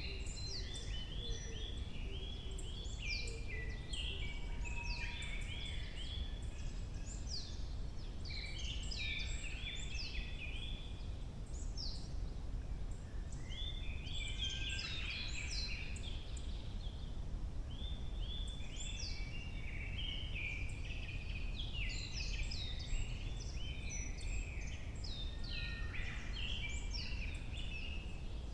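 A forest chorus of several songbirds singing, many short, quick, high notes overlapping throughout, over a steady low background rumble.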